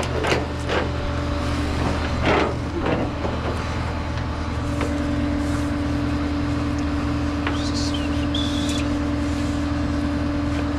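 Tow truck engine running steadily, with a second steady hum joining about five seconds in. There are a couple of sharp clanks in the first few seconds and a brief high whine near the end.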